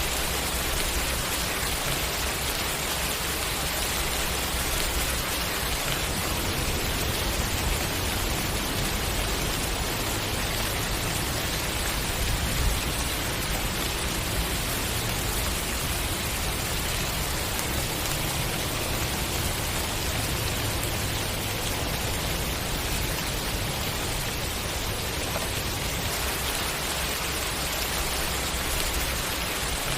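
Steady heavy rain falling on a surface, a dense even hiss, with a low rumble swelling in the middle of the stretch.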